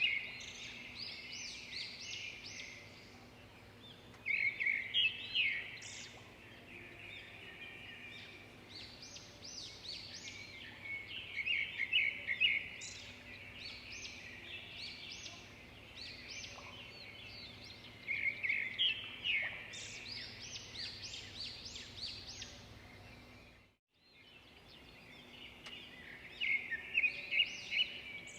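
Songbird singing: repeated bursts of fast, high chirps and trills every few seconds over a faint steady hum, with a brief break in the sound about three-quarters of the way through.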